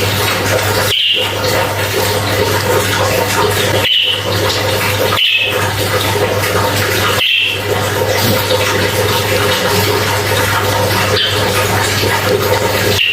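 Yellow-vented bulbul (trucukan) giving a handful of short, sharp notes, spaced a few seconds apart, over a loud, steady rushing noise like running water with a low hum. The background cuts out for an instant just before several of the notes.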